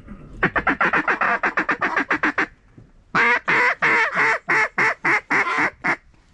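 Mallard-style quacking: a quick run of short chattering quacks, then after a short pause about nine louder quacks that get shorter as they go.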